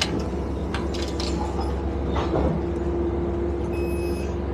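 Passenger train running, heard from inside the carriage: a steady rumble and hum with a few light clicks and knocks. A high electronic beep starts near the end.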